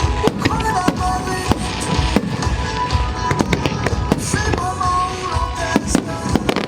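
Fireworks going off in quick, irregular succession, many sharp bangs, over music with a melody.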